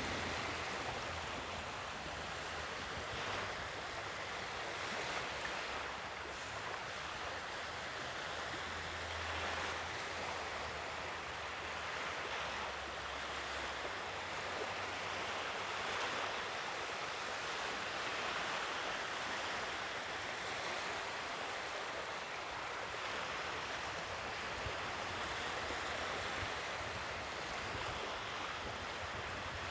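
Ocean waves washing onto the shore, a steady surf with gentle swells of loudness, and some low wind rumble on the microphone in the first half.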